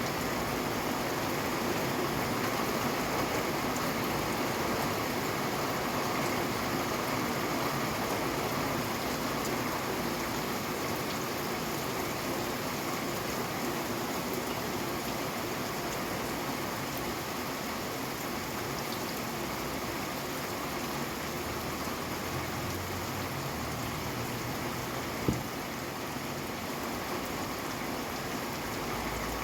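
Steady rain falling, an even hiss with no let-up. A single sharp click stands out near the end.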